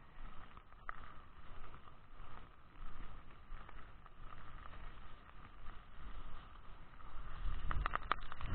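Steady rush of strong wind, heavy rain and the risen sea, with wind buffeting the microphone in a low rumble from about seven and a half seconds in, and a few sharp clicks.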